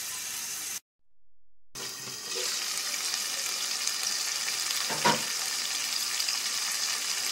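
Beef liver and jackfruit-seed masala sizzling steadily in its oil in a pot on a gas stove. The water has cooked off and the oil has separated, the bhuna stage. The sound cuts out briefly about a second in, and a single short knock comes about five seconds in.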